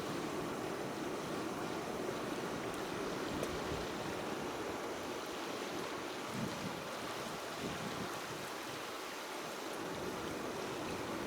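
Small wood fire burning in a mini fire stand: a steady rushing noise with a few faint crackles.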